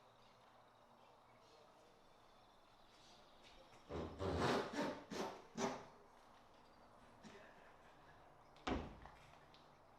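A quick run of knocks and scrapes about four seconds in, then a single sharp knock near the end, against a low steady background.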